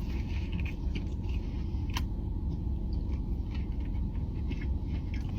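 Steady low rumble, like a car interior's background drone, with a few faint small clicks and one sharper click about two seconds in.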